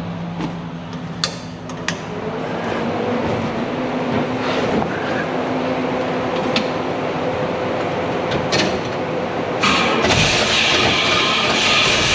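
The 1940s Seagrave ladder truck's engine being started and running, with a few sharp clicks early on. About ten seconds in, a louder rushing hiss comes in and holds.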